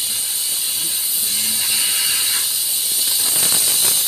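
A steady, high hiss.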